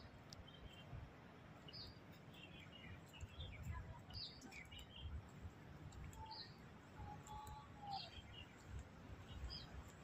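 Small birds chirping faintly: scattered short, high chirps every second or so, over a low background rumble.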